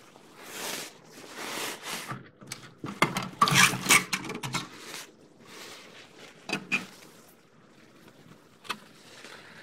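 Handling noise: rustling and light clattering clicks of plastic LEGO parts being moved, densest about three to four and a half seconds in, then a few single clicks.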